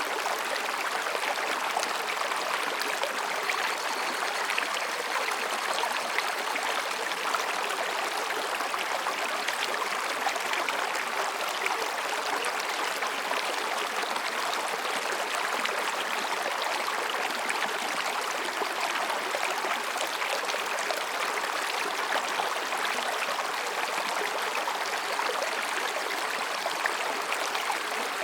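Mountain stream flowing between rocks: a steady babbling rush of water.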